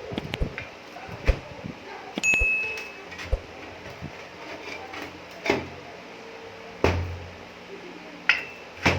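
Pieces of scrap steel being handled and set down on a workbench: scattered knocks and clinks, one giving a short metallic ring about two seconds in, and a few heavier thuds later on.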